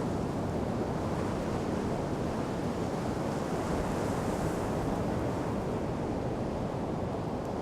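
Ocean surf washing on a sandy shore, with steady wind on the microphone; a wave hisses up a little louder about halfway.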